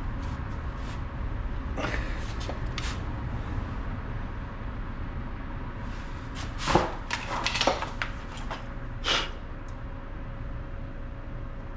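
Scattered knocks and clatters of handling in a workshop, with a louder cluster about seven seconds in and a last knock near nine seconds, over a steady low hum.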